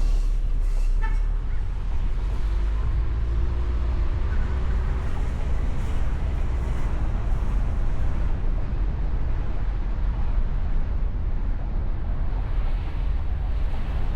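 Steady low rumble of a convertible driving with the top down: road, engine and wind noise, with passing street traffic.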